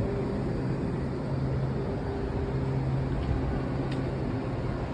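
Steady hum and rumble of a Washington Metro train, with a low electric drone.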